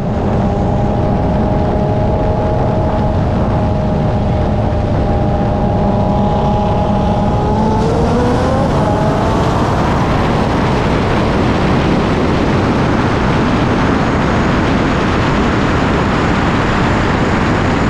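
Cars accelerating hard, engines running at steady pitch and then rising about eight seconds in as they pull away, followed by a loud, dense mix of engine and rushing wind noise.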